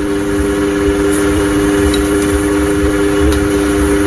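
A steady mechanical hum holding a few fixed pitches over a low rumble, with a few faint clicks.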